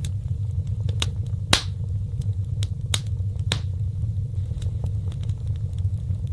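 Wood fire burning in a fireplace: a steady low rumble of flames with a few sharp crackles and pops from the wood, the loudest about one and a half seconds in.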